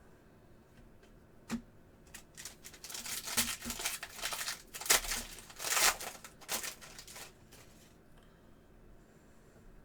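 A trading-card pack wrapper being torn open and crinkled, in a run of rustling tears over a few seconds, with a single click just before.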